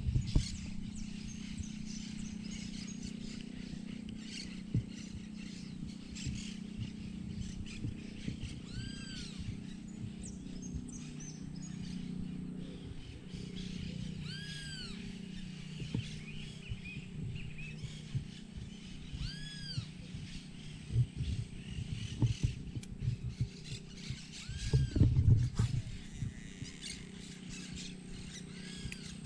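A bird calling five times, about five seconds apart, each a short whistled note that rises and falls, over a steady low hum.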